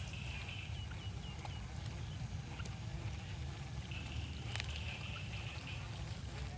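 Steady low rumble of outdoor ambience, with a high thin chirping call heard twice, once at the start and again about four seconds in, from a bird or insect.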